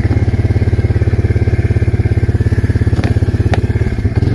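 Arctic Cat 366 ATV's single-cylinder engine running steadily with an even firing pulse. A couple of sharp clicks come about three seconds in, and the engine note changes just before the end.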